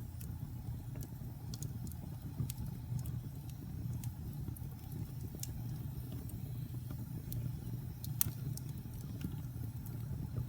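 Wood fire burning in a fireplace: a steady low rumble of flame with scattered small crackles and pops, one sharper pop about eight seconds in.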